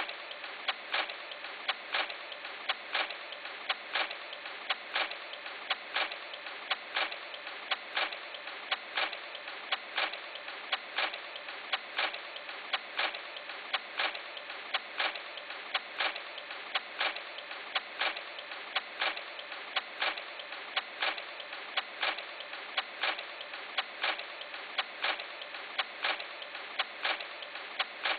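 A steady hiss with a sharp, regular tick about twice a second.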